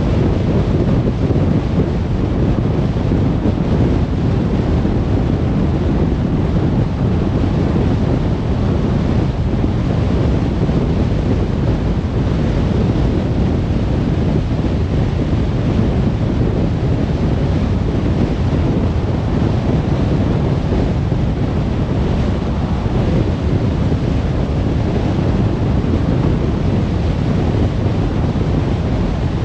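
Steady road noise from a car driving: a low, even rumble of tyres and wind with no change throughout.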